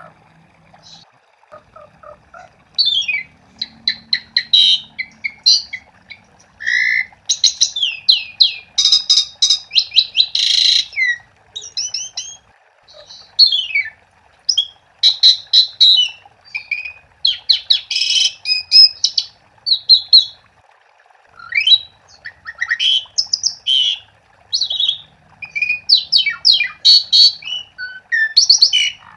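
Asian pied starling (jalak suren) in full song: bursts of rapid whistles, sweeping notes and chattering clicks with a harsh rasp, broken by short pauses.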